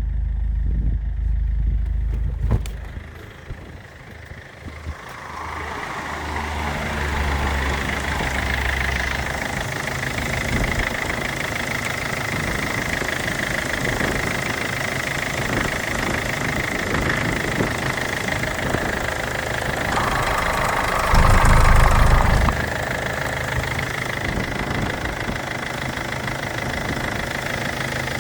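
MG ZT 2.0 CDTi four-cylinder turbodiesel (204D2) running at a steady idle with diesel knock, a higher steady whine over it. It drops away for a couple of seconds near the start, then comes back, and has a louder stretch of about a second and a half around twenty-one seconds in.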